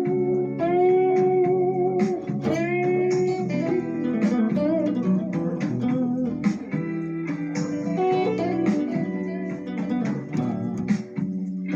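Guitar music: plucked notes and chords, some notes bending in pitch.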